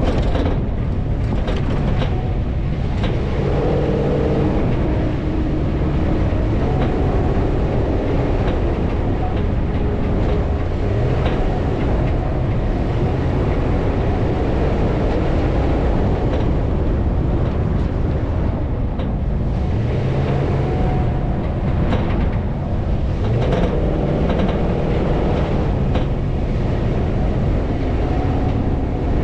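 Off-road vehicle driving over sand dunes: its engine note rises and falls under a constant heavy rumble, with scattered knocks and rattles.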